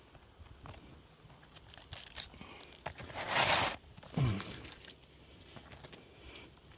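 Asphalt 3-tab shingles being handled on the roof, with one rough tearing, scraping noise of under a second about three seconds in, then a brief low sound falling in pitch.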